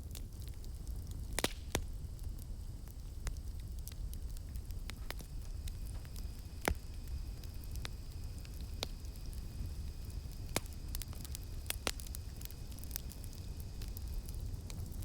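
Wood campfire crackling: irregular sharp pops and snaps over a low steady rumble of burning. From about five seconds in, a steady high insect drone of cicadas sounds behind the fire.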